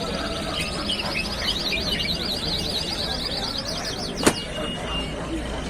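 Caged songbirds singing and chirping over market background noise, one bird giving a long rapid trill that stops just under four seconds in. A single sharp click about four seconds in.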